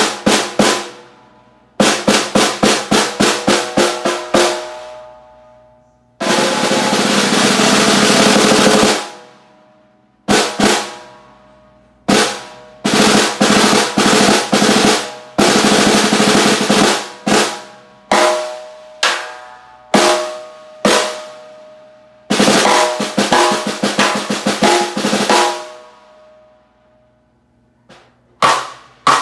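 Spalted maple stave snare drum, 6.5 x 14 inch, being played: quick runs of strokes, a sustained roll of about three seconds a quarter of the way in, then groups of hits and accents, each letting the drum ring out.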